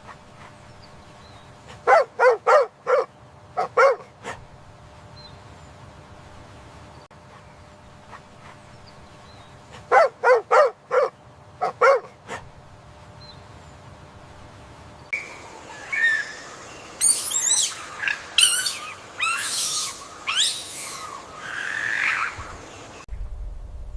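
Animal calls: two runs of short pitched calls, several in quick succession each time, then a stretch of fast, high chirping and twittering from about two thirds of the way in.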